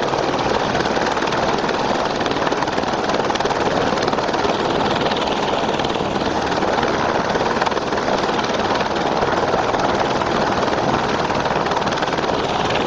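Firefighting helicopter running with a steady, even rotor and engine noise.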